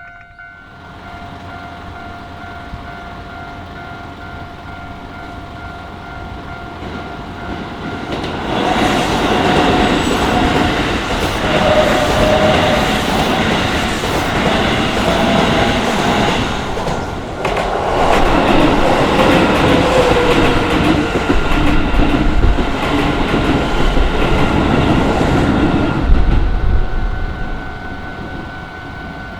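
Keisei Main Line train running through a level crossing at speed, wheels clattering on the rails. It is loud for about eighteen seconds, with a short dip about halfway, and fades near the end. The crossing's warning bell rings steadily throughout.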